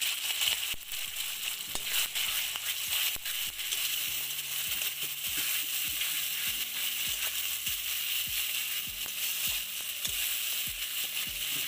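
Wet ground spice paste sizzling and frying in hot oil in a metal kadai (wok), with a steady hiss. A steel spoon knocks and scrapes against the pan as the paste is stirred, giving many short clicks.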